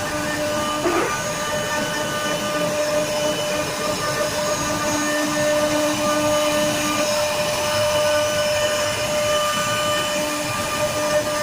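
Woodworking machine running steadily while carving a design into a wooden door: a constant high whine over steady cutting noise, with a brief rising sweep about a second in.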